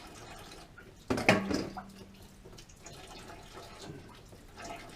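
Water running and dripping from a loosened half-inch water heater supply line as it drains back. A sharp knock sounds about a second in.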